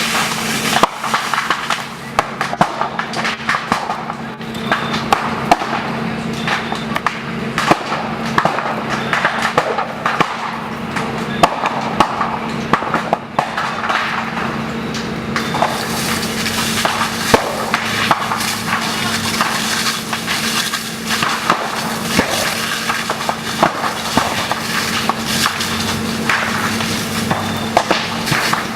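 Bamboo culms burning intensely: a dense, continuous crackle full of sharp, irregular pops as the hollow stems burst from being superheated by the fire. A steady low hum runs underneath.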